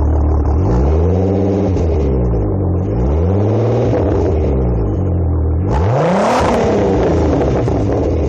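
Turbocharged 12-valve VR6 engine through a full 3-inch exhaust, idling and then blipped three times, each rev rising and falling back to idle. The third rev is the highest and carries a burst of hiss.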